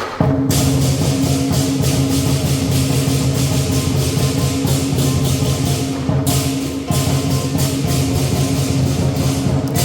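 Lion dance percussion: a big drum beating with cymbals clashing in a fast, steady beat, briefly cut just at the start and dipping for a moment near the end.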